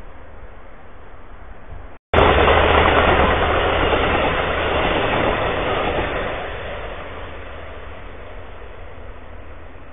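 Passenger train passing close by: a sudden loud rush of wheel and rail noise that begins about two seconds in, holds for a few seconds, then fades as the train goes by.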